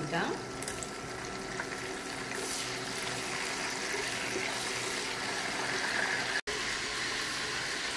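Prawns sizzling in hot oil in a wok as they are stirred with a wooden spatula; the sizzle grows louder a couple of seconds in.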